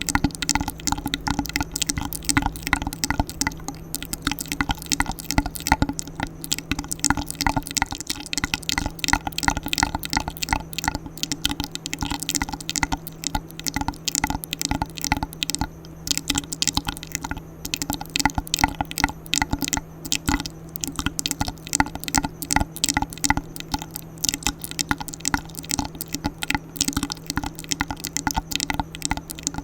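ASMR mouth sounds made close to the microphone: rapid wet clicks, pops and smacks of the tongue and lips, several a second, irregular and continuous.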